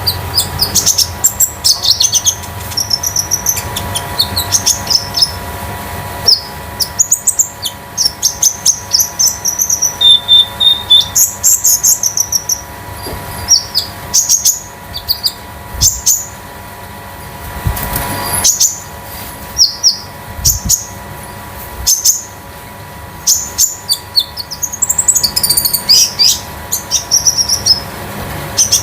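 Konin songbird singing in rapid bursts of high, metallic chirps and trills, with short pauses between bursts.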